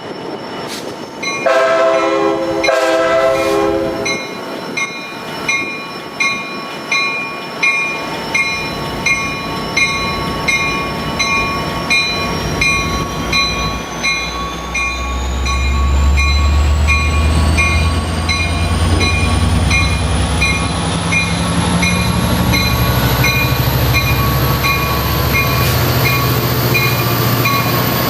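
Amtrak Pacific Surfliner F59PHI locomotive horn, likely a K5LA, sounding two short blasts, while a grade-crossing bell rings steadily. From about halfway the locomotive's low diesel rumble grows louder, and a high whine climbs steadily in pitch.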